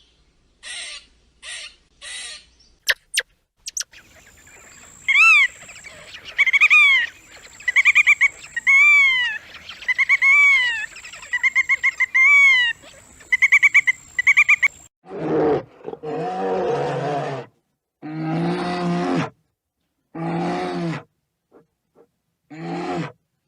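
A series of different animal calls: a few short, noisy calls, then a long run of high calls that rise and fall, then several lower, drawn-out calls about a second long each.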